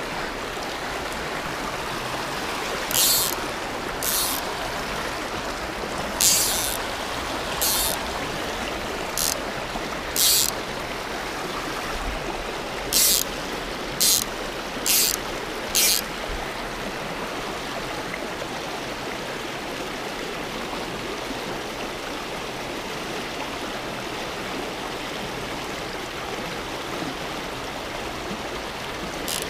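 Creek water running steadily. About ten short, high swishes cut in between about 3 and 16 seconds in, irregularly spaced.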